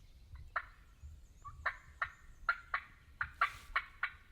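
Wild turkey calling: a run of about ten short, sharp notes, several a second, starting about half a second in and going on to near the end.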